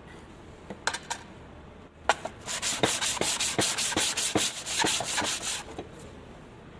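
A metalworking file rasping on steel in a run of quick, even strokes lasting about three and a half seconds, after a few light knocks near the start. It is hand-filing a dovetail.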